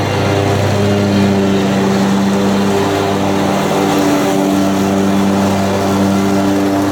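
Lawn mower engine running steadily at mowing speed.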